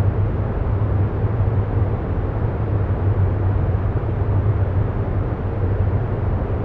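Steady low rumbling noise with no tones or rhythm, strongest in the deep bass: a continuous background noise bed laid under the narration.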